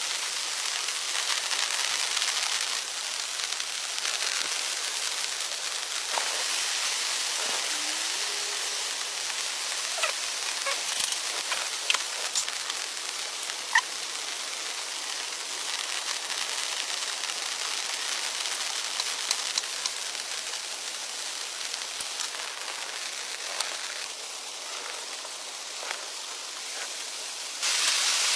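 Steady rain hiss with a few scattered sharp clicks, swelling briefly louder near the end.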